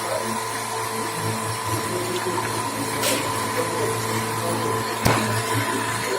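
CNC machine tool running steadily, a constant hum with a thin whine over it. A sharp click about five seconds in.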